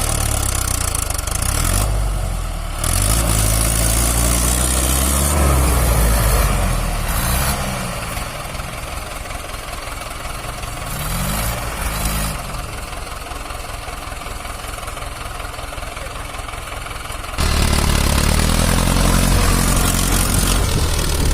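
Mahindra tractor's four-cylinder diesel engine running under load, its revs rising and falling several times. The loudness jumps suddenly about three seconds in and again near the end.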